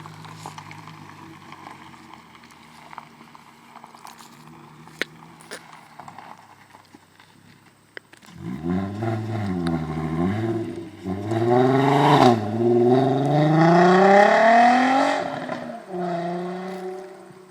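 Volkswagen Jetta VR6 engine breathing through a DNA Motorsports cat-back exhaust. It idles quietly at first, then about eight seconds in it is revved in a few quick rises and falls. A longer rev follows, climbing steadily to a high pitch, and the engine drops back to idle near the end.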